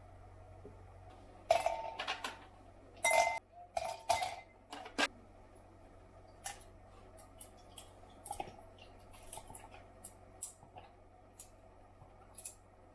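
Clinks and taps of kitchenware being handled: a cluster of sharp strikes in the first few seconds, some ringing briefly like glass or ceramic, then lighter scattered ticks.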